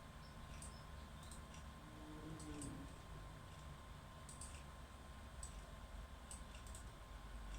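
Faint, irregular light clicks over quiet room tone, with a brief low tone about two and a half seconds in.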